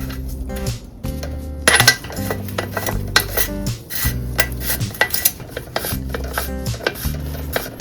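Metal tools clinking and scraping against bicycle bottom bracket parts in irregular, sharp clinks, over background music with a stepped bass line.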